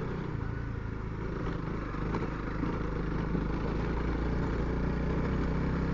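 Honda CRF300L's single-cylinder engine running steadily under way, a low even hum with wind and road noise, heard through a Sena helmet intercom microphone.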